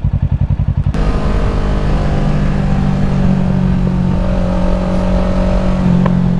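Kawasaki Ninja 650 parallel-twin engine chugging at low revs with distinct, evenly spaced firing pulses. About a second in, the throttle opens and it runs steady at higher revs as the bike accelerates.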